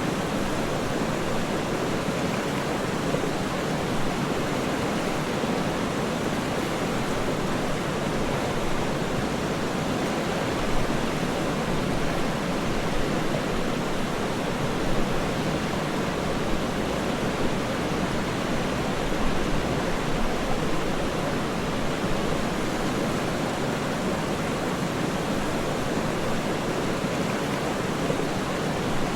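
Waterfall: a steady, deep rush of falling water, even throughout with small swells in loudness.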